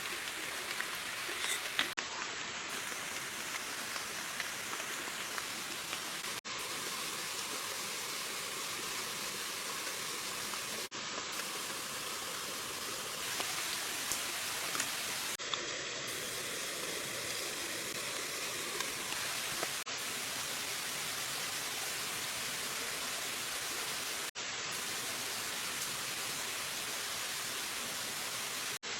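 Steady rushing hiss of water, dipping briefly every four to five seconds.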